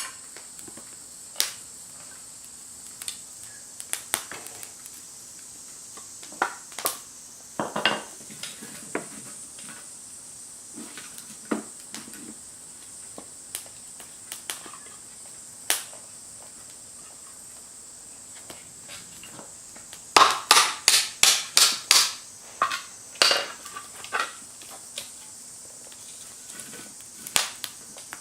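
Scattered clicks and knocks of cookware and gear being handled, with a quick run of about eight sharp knocks about twenty seconds in. A faint steady high-pitched tone runs underneath.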